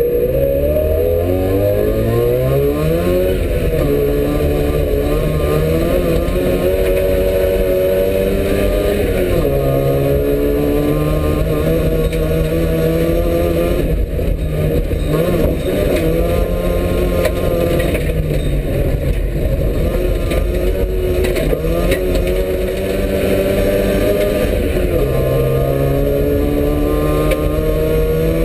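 Rally Trabant 601 engine heard from inside the cabin, pulling hard on a dirt track. Its pitch climbs and then falls back again and again as the car accelerates and changes gear.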